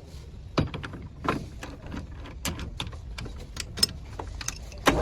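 Irregular metal clinks and knocks, about fifteen, from steel parts and tools being handled, with louder knocks shortly after the start and at the very end.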